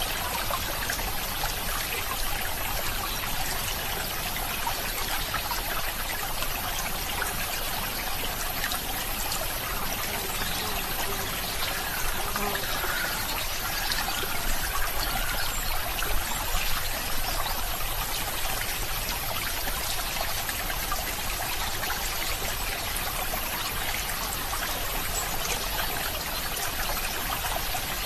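Running water of a small stream, trickling and splashing steadily, a little louder around the middle.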